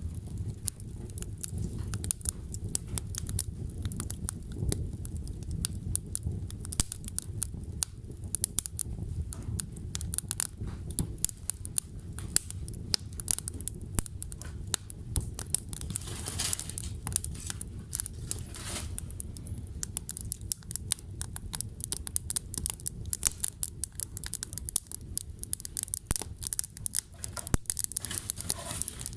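Wood fire burning, crackling with many irregular sharp pops over a low rumble of flames, and a brief hiss a little past the middle.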